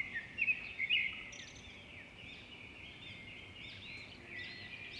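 A flock of small birds chirping: many short, overlapping calls, loudest in the first second.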